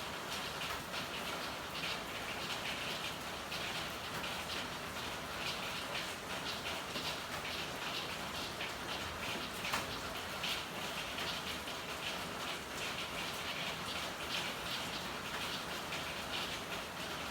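Steady rain with a continuous hiss and many small drop ticks. There is one sharper click about ten seconds in.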